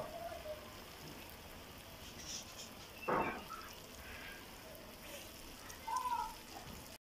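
Flour-coated chicken pieces frying in hot oil in a pan, a steady sizzle. A spatula scrapes and stirs the pieces in two short louder bursts, at the start and about three seconds in.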